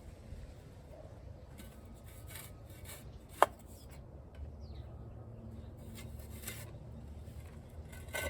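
Intermittent scraping and rubbing, with one sharp hard knock about three and a half seconds in.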